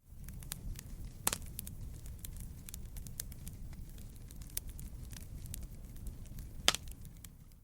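Fireplace wood fire crackling: a steady low rumble of flames with frequent sharp pops and snaps, two louder pops about a second in and near the end. It fades in at the start and out at the end.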